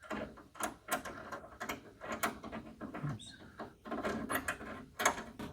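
Thread tap being turned by hand in a metal bolt hole, cutting new threads: irregular small clicks, creaks and scrapes as the tap bites into the metal and is backed off to clear the shavings.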